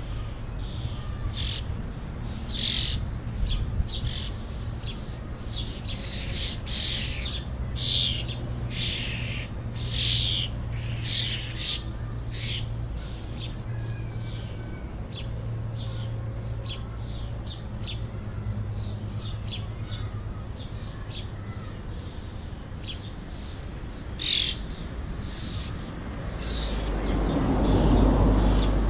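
Many short, sharp bird chirps and calls, thickest in the first half, over a steady low hum. A low rushing noise swells up near the end.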